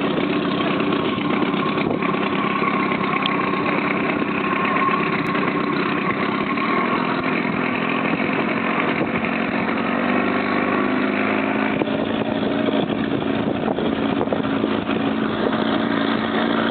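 Motorboat engine running steadily, over rushing wind and water noise.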